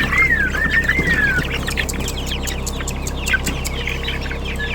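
Penned poultry and game birds clucking and calling, with one bird giving a whistled phrase of several rising-and-falling notes at the start, over many short clicks and a low steady hum.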